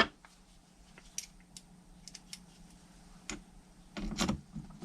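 Scattered small metallic clicks and taps as screws and a screwdriver are handled while the screws are fitted loosely into motorcycle carburettors. There is a sharper knock at the start and a quick clatter near the end.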